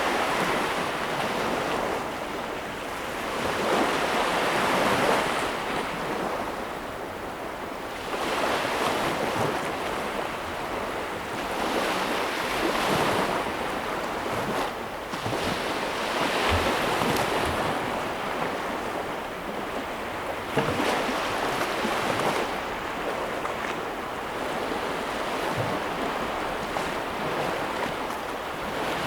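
Ocean waves breaking and washing on a shore, the surf swelling and falling away every few seconds.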